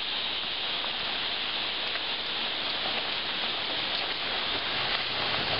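Steady rushing of river water, an even hiss with no breaks. A low hum comes in near the end.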